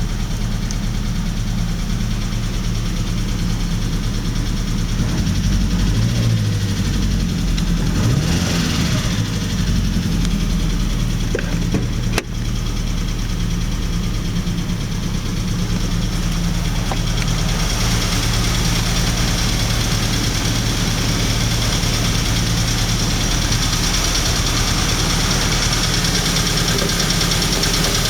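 BMW 320Si's four-cylinder petrol engine running at idle after a cold start, steady, with a brief break in the sound about halfway through. The engine has a fault that needs attention.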